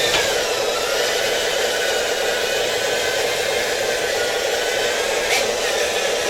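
Electric motors and gearing of radio-controlled construction machines whirring steadily, with a whine that dips slightly in pitch in the first second. There is a sharp click about five seconds in.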